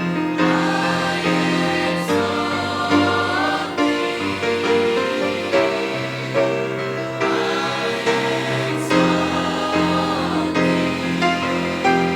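A choir singing a gospel song in harmony, over instrumental accompaniment.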